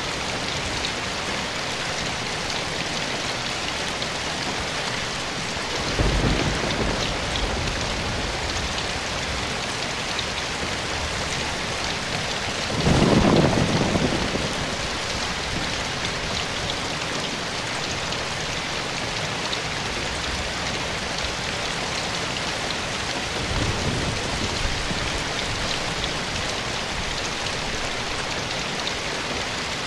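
Steady rain falling, with three low rumbles of thunder: one about 6 seconds in, a louder one about halfway through, and a fainter one near the end.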